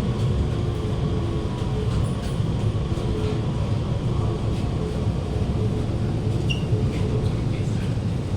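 Alstom Movia R151 MRT train heard from inside the carriage while running: a steady low rumble of wheels on rail with a faint steady motor hum. A couple of short high squeaks come near the end.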